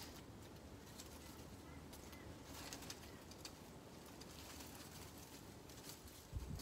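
Quiet garden background with a bird calling faintly.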